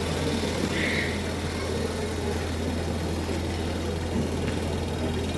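A steady low mechanical hum under a busy background of room noise, with one brief higher sound about a second in.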